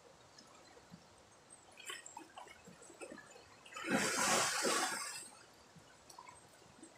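River water splashing and gurgling, with a brief loud rush of water lasting about a second and a half midway, amid small drips and splashes.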